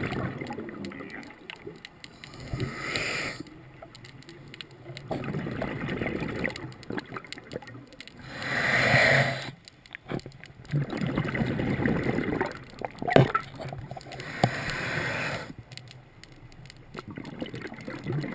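Water gurgling and sloshing, with three louder rushing bursts about six seconds apart, the middle one the loudest, and a sharp click a little after the middle burst.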